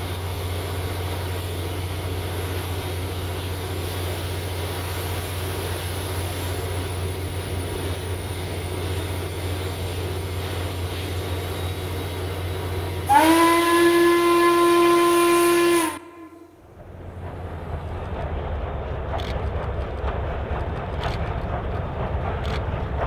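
Steady rumble and hiss, then about thirteen seconds in a steam locomotive whistle, most likely Western Maryland 1309's, sounds one loud long blast of about three seconds that swoops up in pitch as it opens. The sound cuts off abruptly at its end and a quieter, different background follows.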